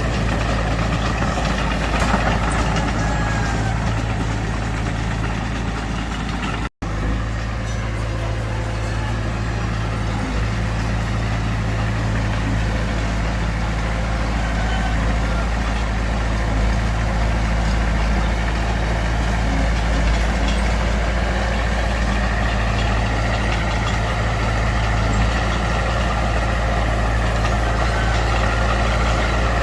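Heavy earthmoving machine's diesel engine running steadily, cut by a momentary dropout about a third of the way in.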